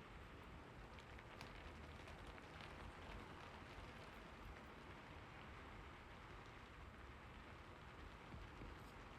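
Faint, steady rain, an even hiss of falling rain with scattered individual drops ticking through it.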